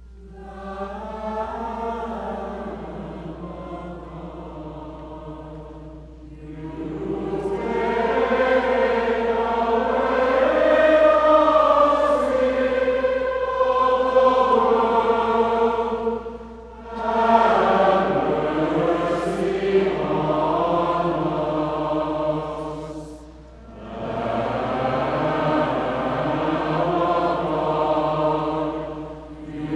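Choir singing in long, sustained, chant-like phrases, with brief pauses between phrases about six, sixteen and twenty-three seconds in.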